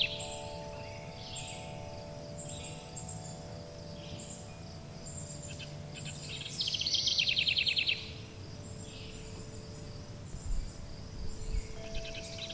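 Forest birdsong: a fast, rattling trill lasting about a second and a half comes midway, another starts near the end, and short high chirps sound in between. Beneath the birds, several soft sustained chime tones ring steadily.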